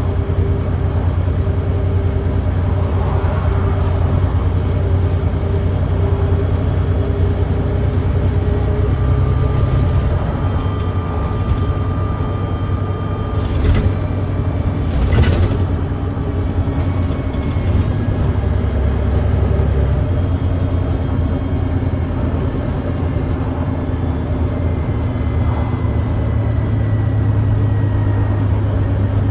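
Volvo B9TL double-decker bus's Volvo D9B diesel engine running under way, its engine note shifting a few times, on a bus with an exhaust leak and engine thrash. Two sharp knocks about halfway through.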